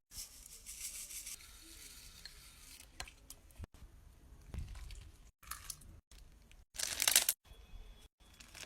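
Slime being handled, making soft crackling and squishing sounds, with a louder crackling burst about seven seconds in.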